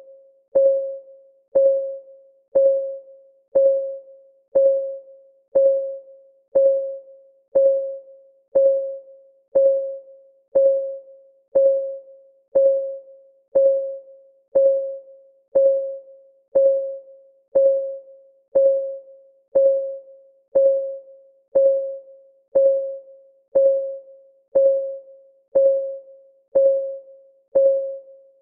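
Clock ticking sound of a timer, one tick a second: each a sharp click with a short pitched ring that dies away within about half a second, evenly paced and unchanging.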